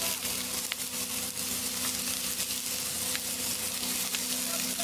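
Green peppers and onions sizzling in oil in a cast iron skillet over a fire pit: a steady frying hiss with faint crackles, over a steady low hum.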